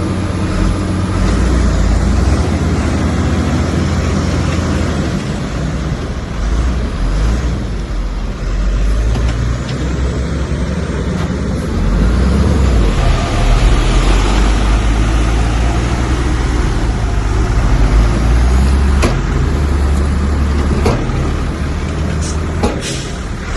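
Heavy diesel engine of earthmoving machinery running under load, its low drone swelling louder about halfway through. A few sharp knocks come near the end.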